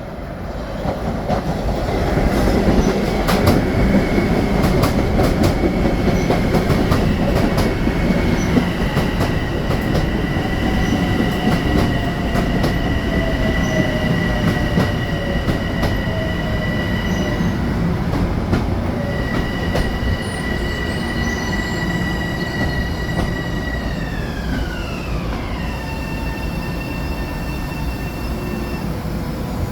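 Long Island Rail Road electric train running, a loud rumble with wheel clicks and steady high whining tones; the level rises about a second in, and the whine drops steadily in pitch near the end.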